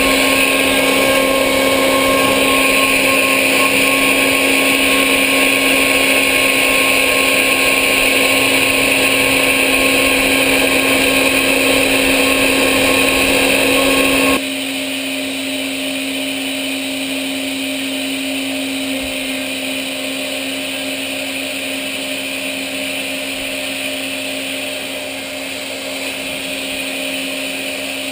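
CNC machine tool running: a steady whine of several held tones over a noisy rush, which drops suddenly about halfway through to a quieter, steady hum.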